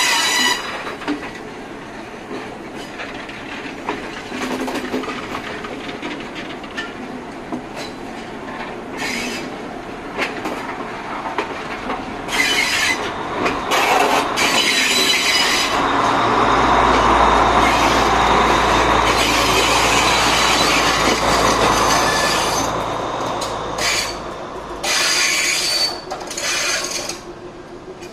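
Passenger train carriages rolling past on the adjacent track at close range, wheels clattering over the rail joints with bursts of high squealing. A louder low rumble builds for several seconds in the middle.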